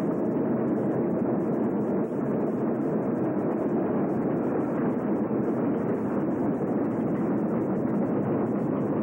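Freight train passing, a steady noise of rolling wheels and diesel engines that doesn't change.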